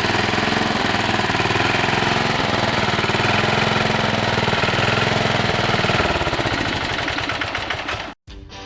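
Sears ST16 garden tractor engine idling steadily. From about six seconds in its beat slows and the sound fades as the engine winds down, then cuts off abruptly near the end.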